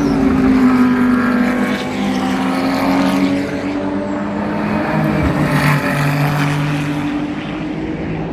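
GT race car engines running at speed, several engine notes overlapping, with one dropping in pitch at the start as a car goes by.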